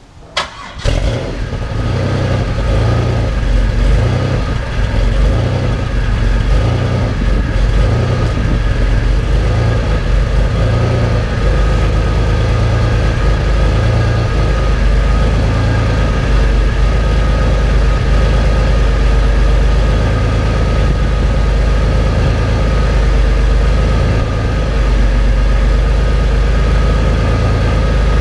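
Pontiac Fiero engine starting on its new exhaust. After a couple of sharp clicks it catches about a second in, then idles steadily.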